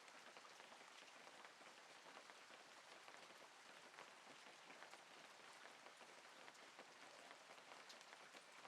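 Very faint, steady patter of light rain beginning to sprinkle, with scattered small drop ticks.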